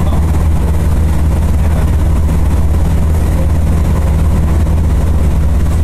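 Passenger train travelling along the track, heard from inside the carriage: a steady, loud, low rumble of the train running.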